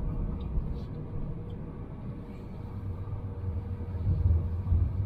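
Car engine running while the car is driven, a low steady rumble that grows louder about four seconds in.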